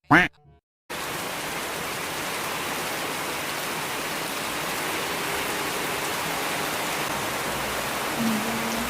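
Steady rain falling, starting abruptly about a second in after a short gap of silence.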